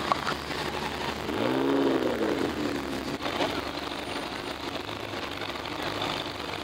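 Car engine running, revving up and back down once about a second and a half in. A sharp click right at the start.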